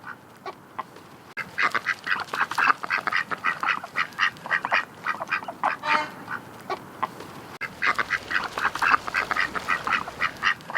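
Ducks quacking, many short calls in quick succession from several birds, starting in earnest about a second and a half in.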